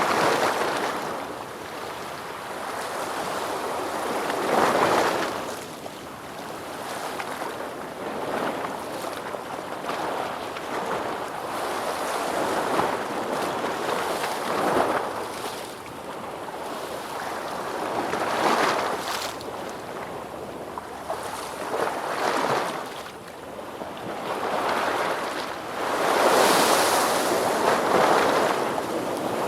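Ocean waves washing in one after another, a rushing hiss that swells and fades every few seconds, the longest and loudest surge near the end.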